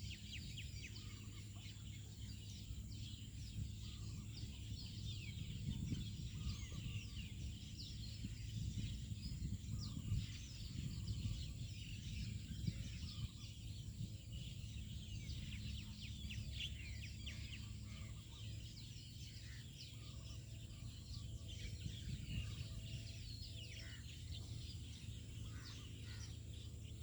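Many small birds chirping in a dense chorus of short calls over a low steady rumble.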